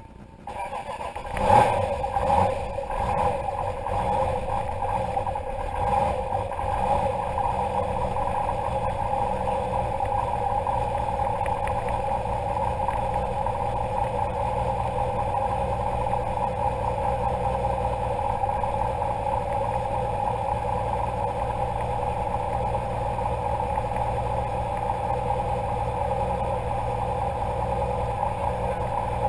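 Turbocharged 1966 Austin-Healey 3000 MkIII rally car engine, heard from inside the cabin, revved sharply a few times in the first seconds and then running at a steady idle.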